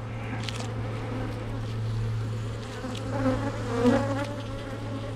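Honey bees from an opened hive buzzing in a steady hum. Around three to four seconds in, a few bees fly close by, their buzz wavering up and down in pitch.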